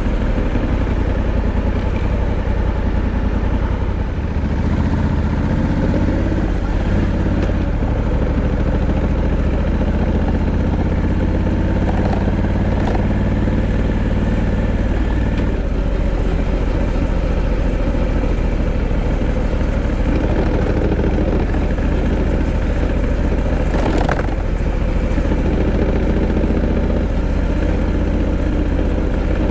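Honda Africa Twin 1100's parallel-twin engine running steadily, its pitch rising and falling in places with throttle changes. There are a couple of brief sharp clicks, the plainest about 24 seconds in.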